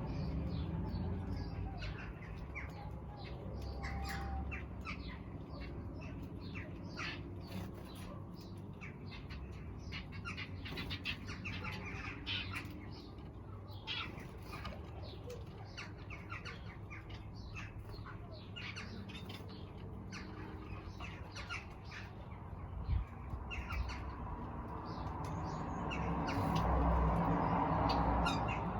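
Aviary birds chirping and calling, a dense run of many short, sharp chirps over a steady low rumble. Near the end a louder rushing noise swells up.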